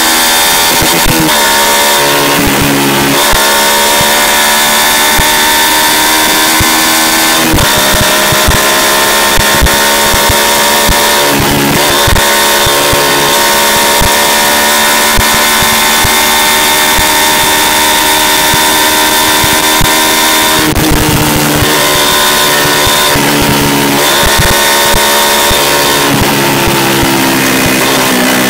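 Yamaha YZF-R125's 125 cc single-cylinder four-stroke engine running under way, its note mostly steady and high, dipping sharply and climbing back several times. The sound is picked up close by a microphone fixed under the bike, with a high hiss of wind over it.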